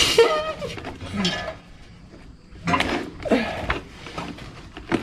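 Metal hand tools clinking and clanking against metal in two bursts, the second about three seconds after the first, with low grunts of effort.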